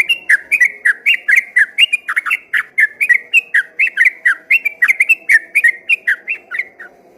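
Yellow-vented bulbul (trucukan) singing a long unbroken run of loud whistled notes, about five a second, which stops shortly before the end.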